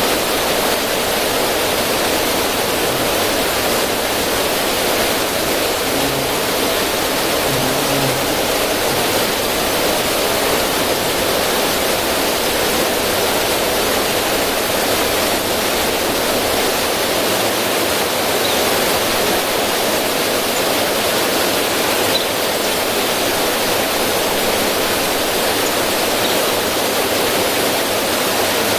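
River current splashing over rocks in a small cascade: a steady, even rush of running water.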